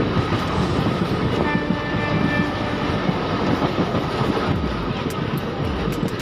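A locomotive running along the track, heard from its cab doorway: a steady rumble and clatter of wheels on rail with rushing air. There are a few sharp ticks near the end.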